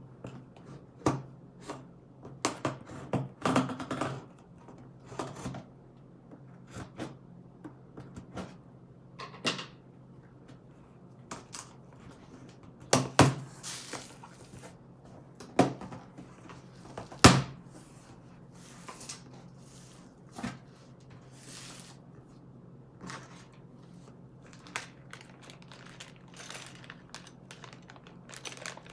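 A sewing machine's cardboard box and packaging being handled: scattered knocks and thumps with short rustles, the sharpest knocks a little before halfway and about three-fifths in.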